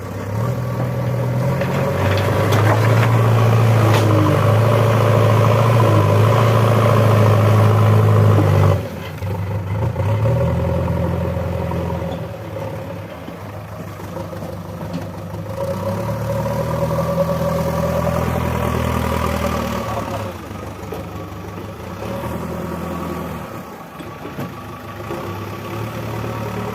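Diesel engine of a JCB 3DX backhoe loader working under load, revving hard for several seconds, dropping back suddenly about nine seconds in, then rising again for a few seconds before settling lower.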